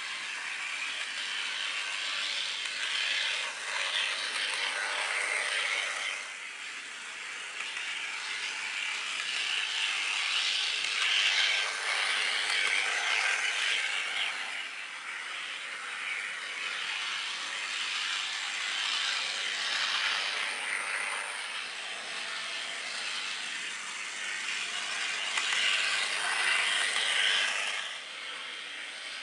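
HO-scale brass model tram on an AruPower HO-26A motor bogie, running on track with its small motor and gears whirring and wheels rattling. It grows louder and fades again four times, as if passing close by on a loop.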